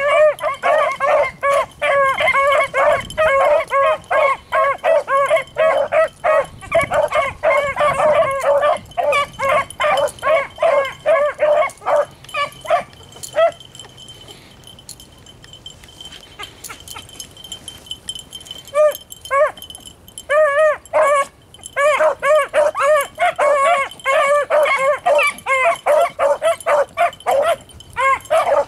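Beagles baying on a rabbit's trail: a quick run of high, pitched barks several a second. The baying breaks off for about five seconds around the middle, then starts again and grows dense near the end.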